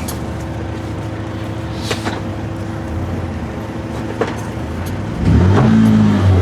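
A large engine running steadily, with a couple of sharp metal clicks. Just past five seconds in it grows much louder and deeper.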